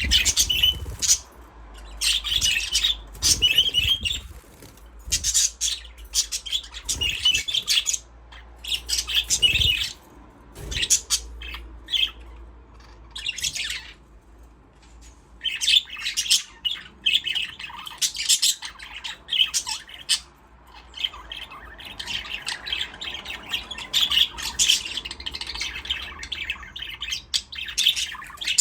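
Budgerigars chirping and chattering in quick bursts with short lulls between them. The chatter becomes nearly continuous about halfway through.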